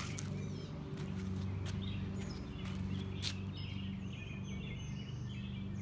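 Small birds chirping repeatedly over a steady low hum, with a few scuffs of footsteps on concrete.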